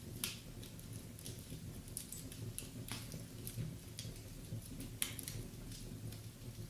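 Wood fire crackling in a fireplace: irregular sharp pops and snaps over a steady low rumble of flames, with the loudest pops just after the start and about five seconds in.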